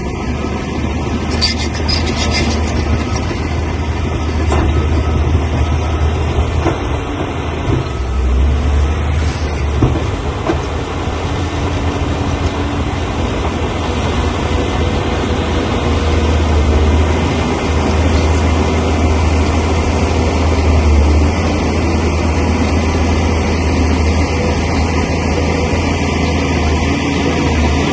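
Crawler bulldozer's diesel engine running steadily under load, with the clanking and squeal of its steel tracks and a few sharp metal knocks in the first ten seconds.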